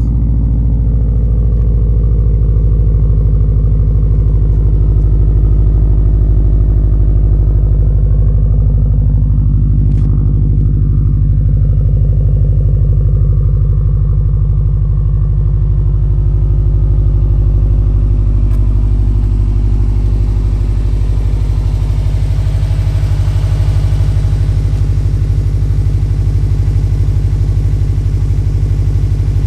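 Subaru WRX STI's turbocharged flat-four engine idling steadily just after a cold start, with oil pressure still high while it warms up.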